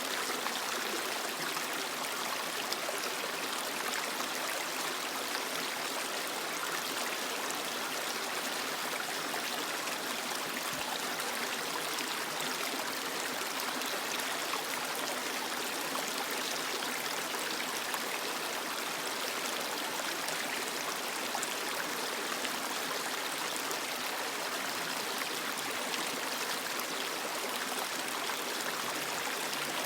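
Creek water flowing and splashing over rocks in a steady rushing babble.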